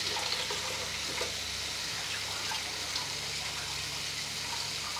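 Diced potatoes and tomatoes frying in a pot: a steady sizzling hiss with a low hum underneath.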